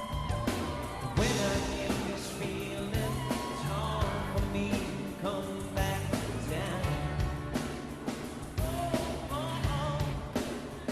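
Live rock band playing, with steady drum hits over bass and other instruments.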